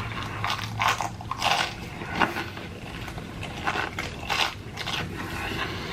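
Close-miked chewing and wet mouth sounds: irregular soft smacks and squelches while eating a mouthful of food.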